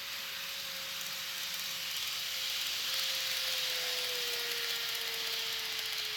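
KATO N-gauge 255 series model train running on track: a steady hiss of wheels on rail that swells about halfway through, with a thin motor whine that slowly falls in pitch.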